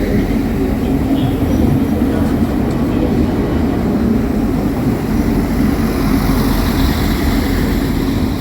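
Train running at a station platform: a steady, loud rumble.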